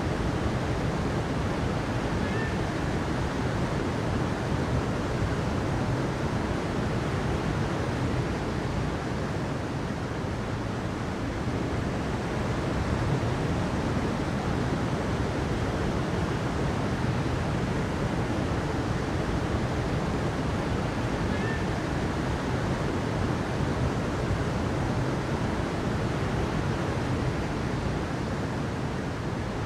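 Water rushing steadily, an even unbroken noise with no breaks or swells.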